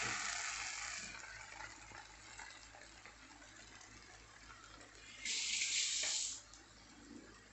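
Vermicelli upma sizzling in a hot frying pan as it is turned with a wooden spatula, the sizzle dying away over the first second or so now that the gas is off. A short hiss of a little over a second comes about five seconds in and cuts off sharply.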